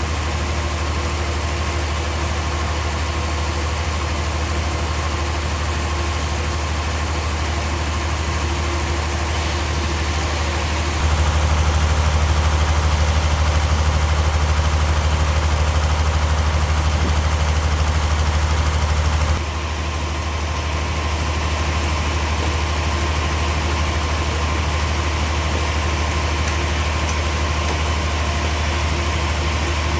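Sawmill machinery running with a steady engine drone. It gets louder about a third of the way in and drops back suddenly after about eight seconds.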